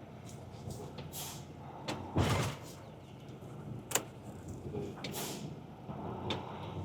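Semi-truck idling while being hooked up to a trailer, with several short rushing noises and one sharp metallic clack about four seconds in.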